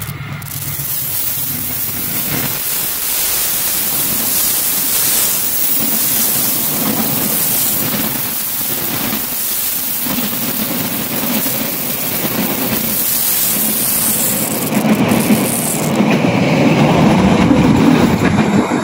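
Passenger train (Taksaka express) passing close by at speed: a loud rush of steel wheels on rail with recurring clatter as the carriages go by. The low rumble is loudest near the end as the last coaches pass.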